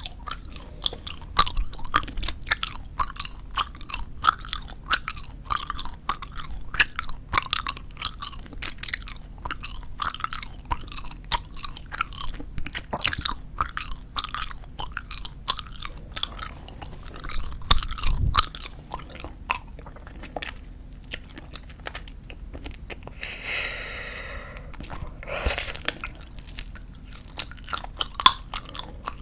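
Close-miked chewing of soft squeeze-tube bubble gum: a dense run of wet, sticky clicks and smacks. The clicks thin out briefly about two-thirds of the way in, and a short squeaky pitched sound comes near the end.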